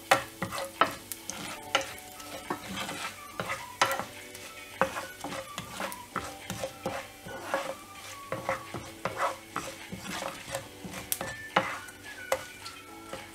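Wooden spatula stirring a tempering of mustard seeds, urad dal, cumin and dried red chillies sizzling in hot oil in a nonstick pan, with many short clicks and scrapes.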